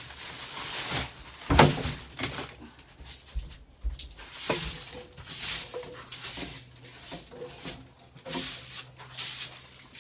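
Irregular knocks and rustling of objects being handled and moved, with one sharp loud knock about a second and a half in.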